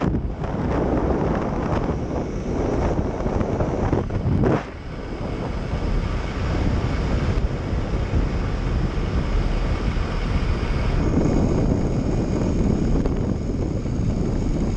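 Rushing wind buffeting the microphone on a fast zipline descent, a steady loud roar of air with a brief dip about four and a half seconds in.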